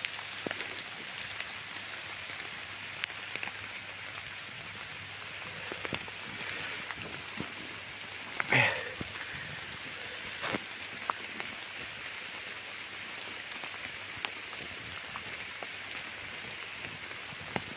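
Light rain falling on forest leaves: a steady hiss with scattered single drop ticks, and a brief louder noise about eight and a half seconds in.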